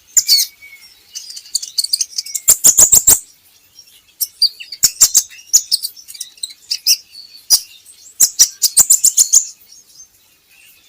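Kolibri ninja sunbird singing: high, thin twittering and chirps, broken three times by fast runs of sharp ticking notes.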